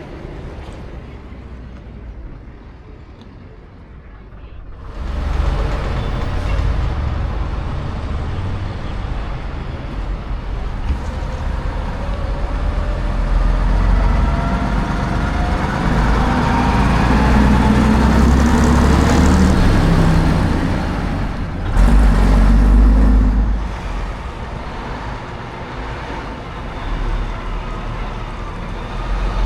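Diesel bus engine running under load: it comes in loudly about five seconds in and rises steadily in pitch as it accelerates. Near the end it drops briefly, then surges loudly before settling lower.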